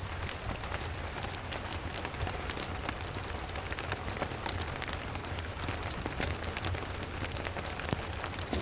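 Steady rain with many small sharp crackles scattered through it, like a wood fire in a fireplace, over a low steady rumble.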